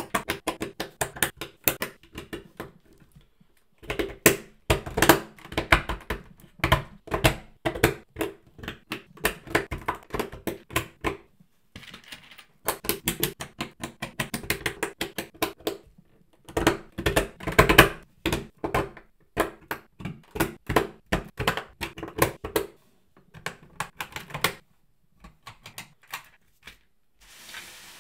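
LEGO Technic plastic parts clicking and clattering as they are handled and pressed together, in bursts of rapid clicks with short pauses between them.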